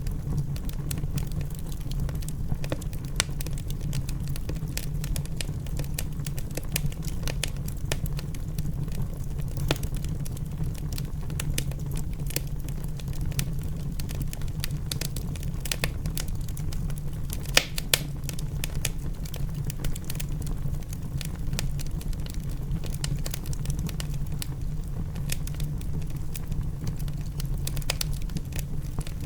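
Wood fire in a fireplace crackling and popping over a steady low rumble, with two sharper pops about eighteen seconds in.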